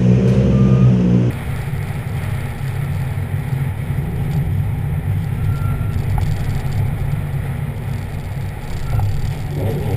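Ford Fiesta RRC rally car's turbocharged engine. It runs loud and steady at first, then after a sudden drop it is heard more faintly as a low rumble, mixed with outdoor noise. Near the end the revs rise as it accelerates.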